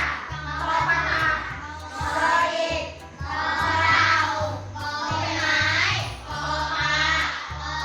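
Children singing a song together over backing music with a steady, repeating bass beat.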